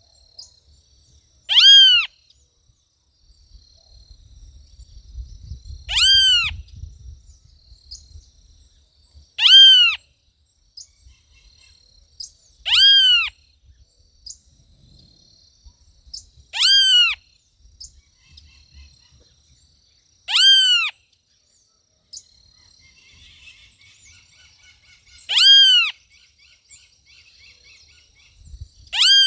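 A bird calling, a single short arched call, up then down in pitch, repeated about every three to four seconds, eight times. Faint twittering of other birds between two of the calls near the end.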